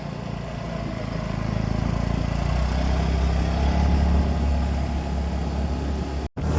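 Scooter engine running steadily while riding, a low hum that grows a little louder over the first couple of seconds. The sound cuts out briefly near the end.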